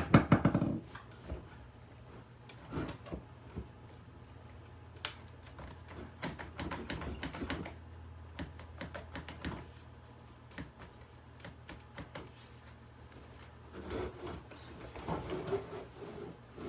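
Irregular clicks, knocks and scrapes of hard plastic as a Hoover vacuum cleaner's parts are pried and wrenched at by hand. The loudest is a quick clatter at the very start, with scattered taps and scraping after it.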